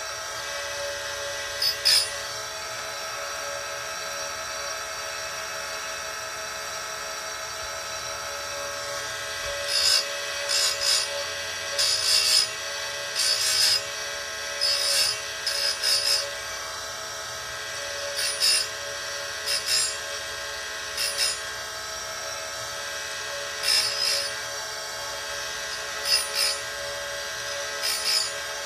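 Oregon 410-120 chain grinder running steadily with a CBN wheel, its motor giving a constant hum and whine. A dozen or more short grinding bursts sound as the wheel is brought down onto the chainsaw chain's left-side cutters one after another, most of them close together through the middle and a few spaced out near the end.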